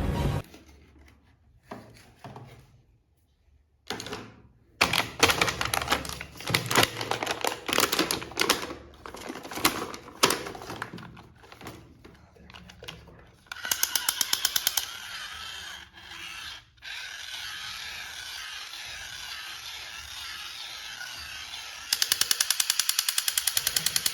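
Irregular clicking and knocking, followed by a steady mechanical buzz with rapid even ticks that gets louder near the end.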